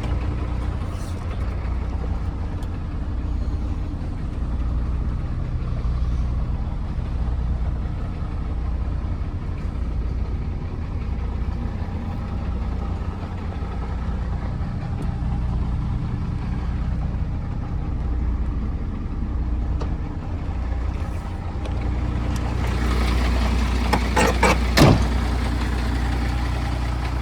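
MAN TGM 18.240 truck's six-cylinder diesel engine running steadily with a low drone. Near the end, a burst of hissing with several sharp clicks rises over it.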